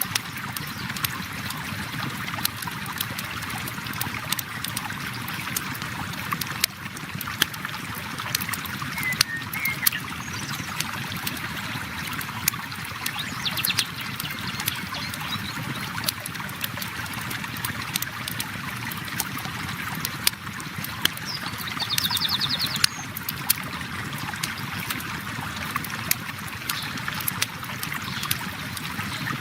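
A river flowing steadily, with a campfire crackling over it in frequent sharp pops and snaps.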